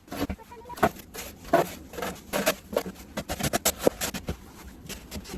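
Irregular crunching and scraping in snow, a quick uneven run of short crackly strokes.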